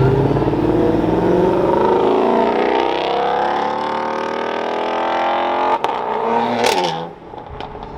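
A car engine accelerating hard, its pitch climbing steadily for about six seconds. Then comes a sharp crack, and the engine sound drops away near the end.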